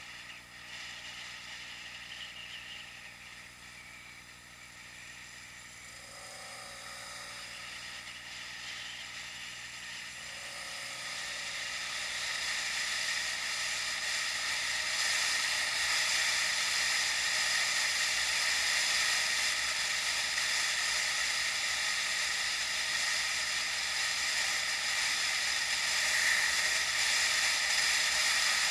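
Steady rushing hiss of wind and rolling noise on a bicycle-ride action camera, growing louder about a third of the way in, then holding steady.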